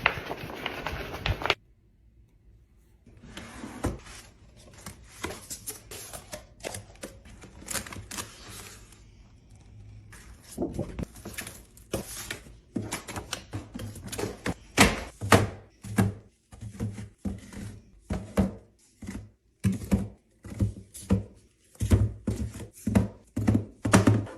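Rolls of adhesive craft vinyl being handled as they are unrolled and re-rolled: the sheet rustles, with frequent sharp knocks and thunks as the rolls are handled and set down, coming thicker and louder in the second half. A louder stretch cuts off abruptly about a second and a half in.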